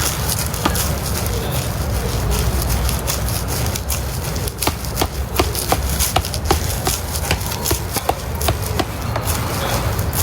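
Steady low rumble of wind on the microphone, with a regular run of short, light knocks at about three a second through the middle.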